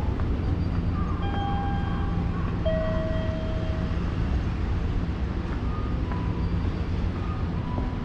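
Subway station ambience: a steady low rumble with a few faint, short high tones.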